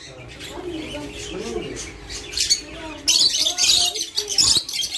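Small birds chirping, the chirping growing loud and busy in the second half.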